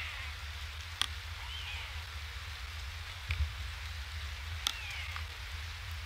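Steady rain falling on an outdoor webcam, with single drops ticking sharply on the camera about a second in and near five seconds in. A few faint, high, falling mewing calls come through the rain.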